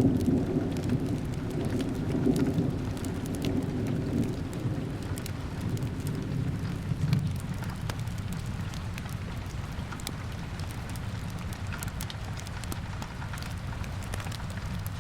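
Steady rain falling, with a low rumble of thunder that fades away over the first half. Scattered sharp little ticks sound through it.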